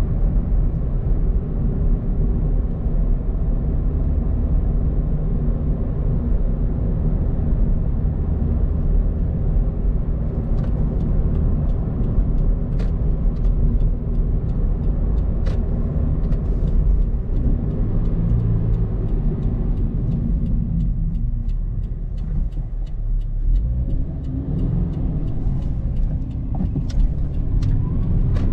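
Subaru BRZ's 2.0-litre flat-four engine running at low revs under way, heard from inside the cabin along with tyre and road noise. The engine sound eases off about two-thirds of the way through and picks up again near the end, with scattered faint clicks in the second half.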